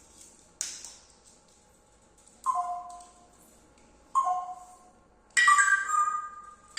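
Pet parrot whistling: a short harsh squawk-like burst, then three whistled calls of two or three steady notes stepping down in pitch, the last longer and louder.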